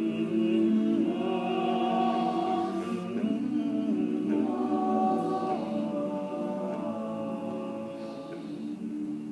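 All-male a cappella group singing the song's closing chords in wordless close harmony: several voices hold sustained chords that move to new chords a few times, the last one held to the end.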